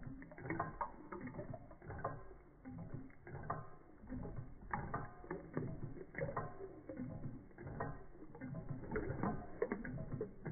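Reichelt Adler model Stirling engine running and working a Péricaud toy pump: rhythmic mechanical clicking and clattering that repeats in clusters.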